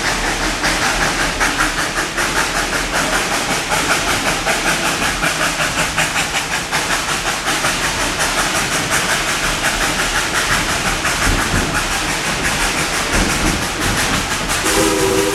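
Narrow-gauge steam train running, with hiss and a fast, even beat. A steam whistle starts blowing just before the end.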